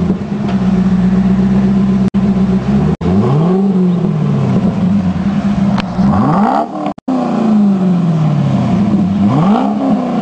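Car engine idling and revved three times, each rev rising quickly and sliding back down to idle. A few abrupt cuts briefly break the sound.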